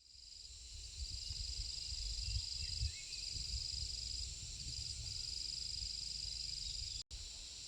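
Insects trilling in a steady high, continuous tone that breaks off briefly a few times, over an uneven low rumble. The sound cuts out for an instant about seven seconds in.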